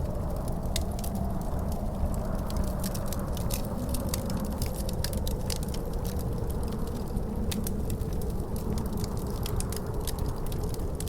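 Wood fire crackling with many irregular sharp pops, over a steady low rumble of wind and a faint howling tone that slowly wavers in pitch.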